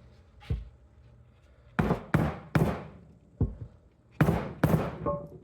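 A hammer tapping a heavy socket to drive new spark plug tube seals into a Honda valve cover: about seven sharp metallic taps, mostly in quick pairs, some with a short ring.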